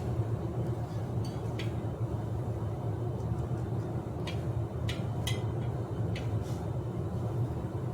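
A steady low hum with about half a dozen short, sharp clicks scattered through it, from small parts and tools being handled while fitting a bicycle's shifter and gear cable.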